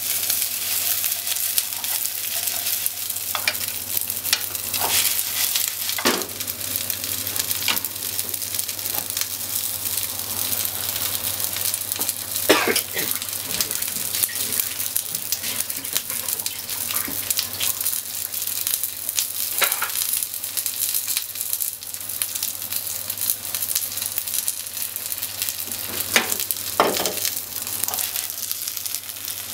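Cubes of atsuage (deep-fried tofu) sizzling in oil in a frying pan while being stirred with long cooking chopsticks, a steady hiss broken by a few sharp knocks as the pieces are turned against the pan.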